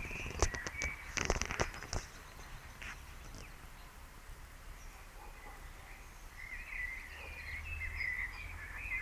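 A cluster of sharp clicks and knocks in the first two seconds, then faint, wavering high chirping calls in the last few seconds over a low steady background hum.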